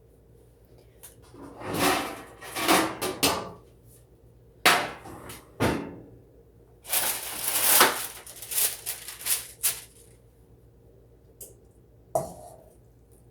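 Metal baking pans and kitchenware clattering as they are handled and pulled out, in several bursts of knocks and scrapes and one last knock near the end.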